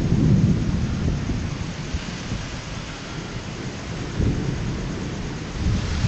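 Thunder rumbling, fading over the first few seconds and swelling again near the end, over a steady hiss of rain.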